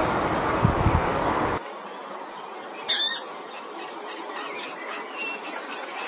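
A rushing hiss with a few low thumps cuts off abruptly after about a second and a half. Then a bird gives one short, sharp squawk about three seconds in, followed by a few faint chirps.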